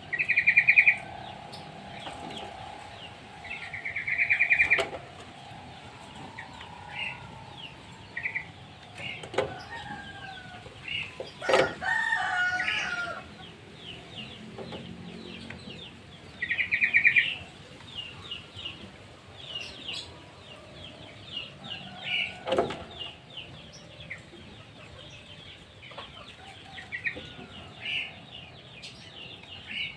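Birds calling throughout: many short chirps and several trilled bursts about a second long, with a louder, fuller call about twelve seconds in.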